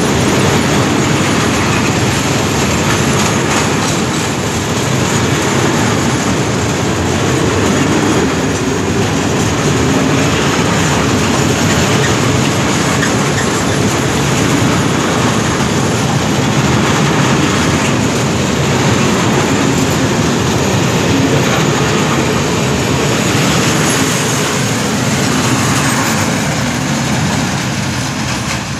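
Long freight train of covered wagons rolling past at speed, its wheels rumbling and clacking on the rails. The noise eases near the end as the last wagon goes by.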